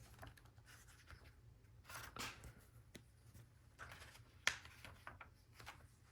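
Faint rustling and light clicks from handling Lego Technic pieces, with one sharper click about four and a half seconds in.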